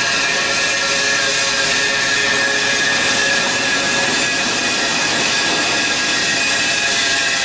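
Steady, loud machinery noise with several high whining tones held throughout.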